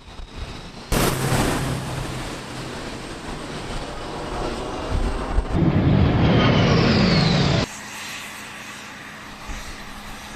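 Jet aircraft noise that starts suddenly about a second in and grows louder, with a falling whine as it passes, then cuts off abruptly; a quieter steady hum follows.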